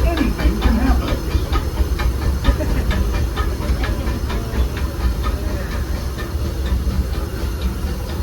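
Disneyland Railroad steam train running, heard from a passenger car: a steady low rumble with a quick, regular clatter and a hiss of steam.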